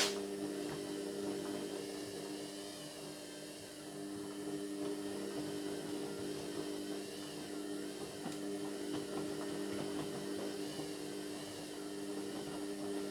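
Indesit MyTime washing machine running partway through its cotton 60 cycle: a steady motor or pump hum with a few fixed low tones and a hiss of water noise.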